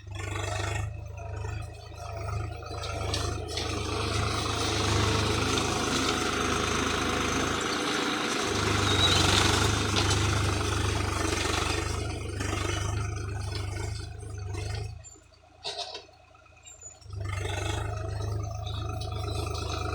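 Swaraj 735 FE tractor's three-cylinder diesel engine running steadily. The sound drops away for about two seconds about three-quarters of the way through, then returns.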